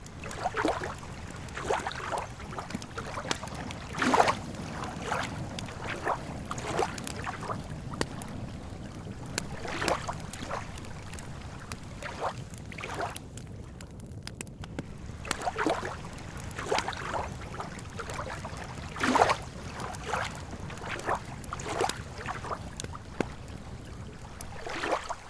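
Wood campfire crackling and popping at irregular intervals, with a few louder pops, over a steady low wash of lake water lapping.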